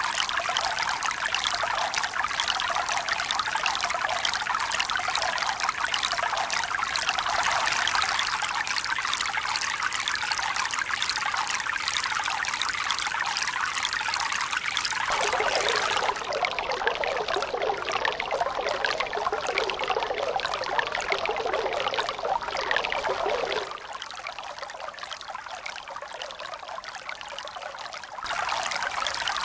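Steady running water, splashing and trickling without any wave rhythm. Its tone shifts abruptly a few times, and it turns quieter for a few seconds before coming back louder near the end.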